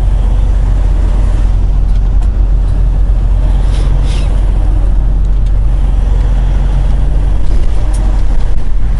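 Semi truck driving, heard from inside the cab: a steady, loud low rumble of engine and road noise.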